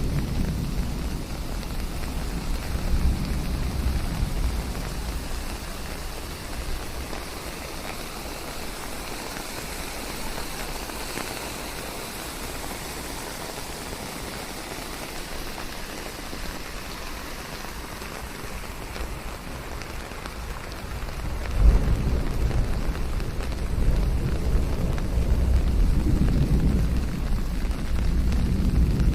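Steady rain falling on leaves, with low rolling thunder in the first few seconds. About three-quarters of the way in, the thunder starts again with a sudden loud clap and keeps rumbling.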